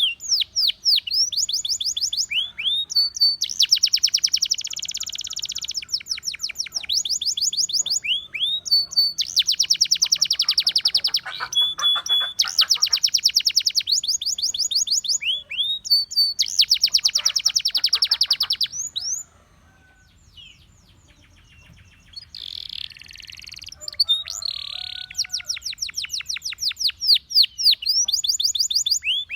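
Russian singing canary in full song: long rolls of fast, evenly repeated sweeping notes, changing from one rapid trill to the next. The song breaks off for about three seconds about two-thirds of the way through, then resumes with a few harsher notes and more trills.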